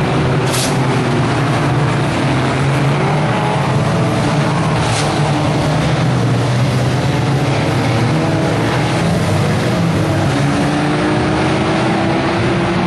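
Several 1600cc banger racing cars running on the track together, engines revving up and down in a continuous loud din, with two short sharp noises, about half a second in and about five seconds in.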